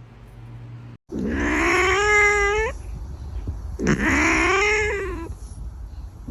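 A cat yowling: two long drawn-out calls, each rising in pitch, with a third call beginning at the very end.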